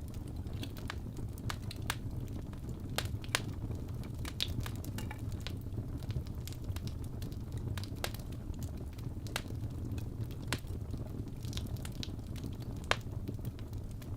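Wood fire burning in a fireplace: a steady low rumble of the flames with irregular sharp crackles and pops, a couple of them louder.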